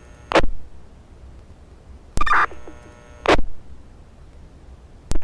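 Two-way fire radio channel between messages: four short bursts of static as radios key up and drop, one carrying a brief two-tone data chirp, over a low steady hum.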